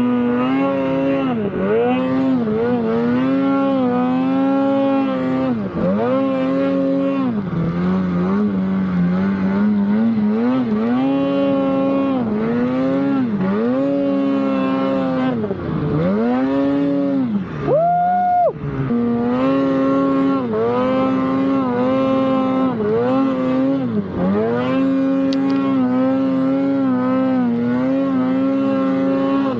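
Snowmobile engine under throttle, revving up and dropping back every second or two as the rider works the trail. A little past halfway it briefly shoots up to a much higher pitch, then falls back.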